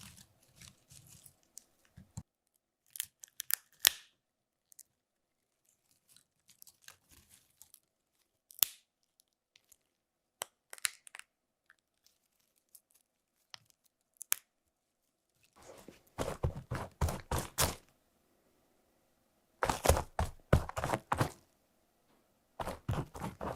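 Foley effects recorded close to the microphone: scattered sharp cracks and clicks, then three dense bursts of crackling and crunching in the second half.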